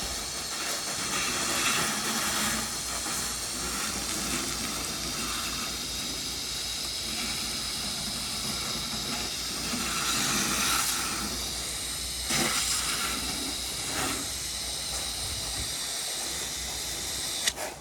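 Water spray from a pressure-washing nozzle hissing steadily, swelling louder a few times.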